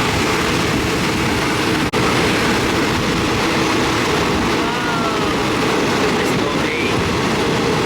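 Passenger train running on the rails with a steady, dense running noise. The sound cuts out for an instant about two seconds in.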